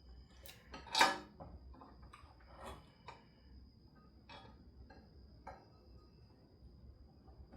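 Hand tools clicking and clinking against metal while an engine accessory bracket is unbolted: scattered short knocks, the loudest about a second in. A faint steady high whine runs underneath.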